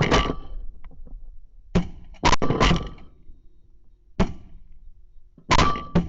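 A series of shotgun blasts: sharp loud reports, some in quick pairs, each with a short fading echo.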